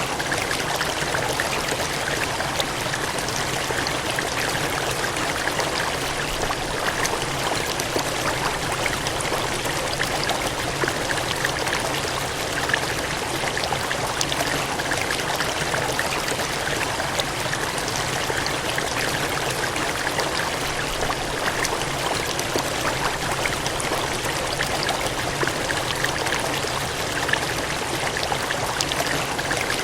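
Steady gushing, cascading water: a continuous even rush of flowing water with fine splashy crackle throughout.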